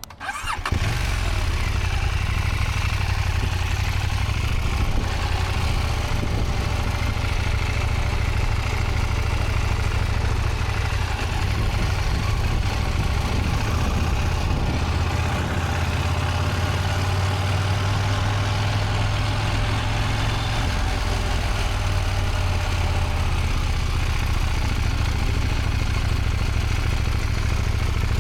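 Motorcycle engine running steadily at low speed, heard from the rider's position; the sound comes in abruptly about half a second in.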